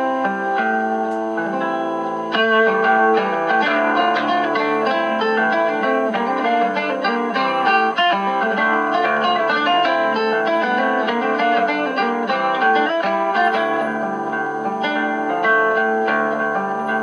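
Live acoustic guitar duo playing, heard as a broadcast through a five-tube superheterodyne kit radio's speaker, thin in the bass with faint steady high tones behind. The playing grows busier about two seconds in.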